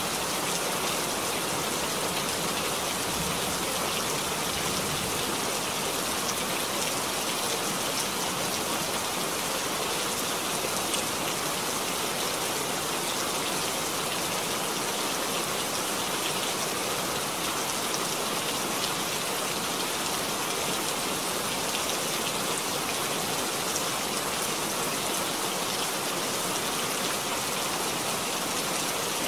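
Steady rain falling into a puddle: an even hiss dotted with the small ticks of single drops.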